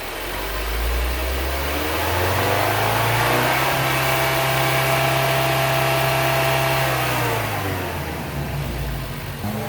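A 2018 Lincoln MKC's 2.0-litre EcoBoost four-cylinder engine under acceleration: the revs climb for about four seconds, hold steady for about three, then fall away near the end.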